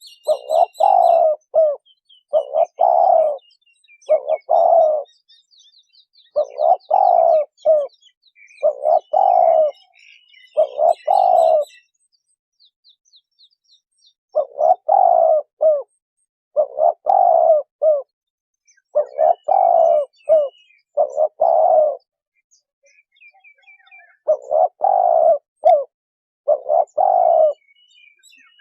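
Spotted dove cooing: a run of about a dozen repeated phrases, each a second-long coo of two or three notes, about one every two seconds, broken by two short pauses. Faint chirps of other small birds sound in the background.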